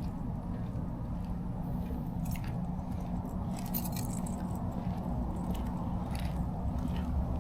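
Steady low drone of a tractor-trailer's diesel engine and road noise heard inside the cab, with scattered small clicks and rattles.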